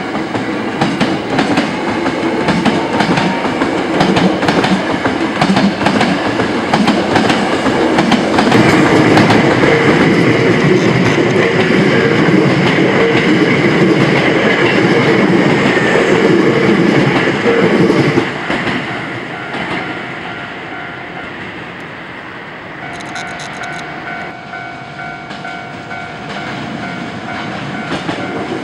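Hankyu Railway electric train passing, its wheels clacking over rail joints with many sharp clicks. It is loud for about the first eighteen seconds, then drops away quickly, and a steady tone comes in near the end.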